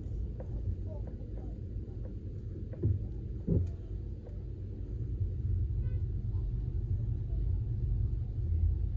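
A car driving: a steady low engine and road rumble, with two short louder sounds about three and three and a half seconds in.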